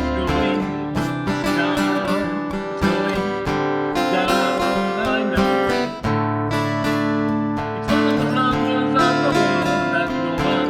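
Acoustic guitar strummed in a steady rhythm over sustained low notes, in an instrumental passage with no singing; the chord changes about halfway through.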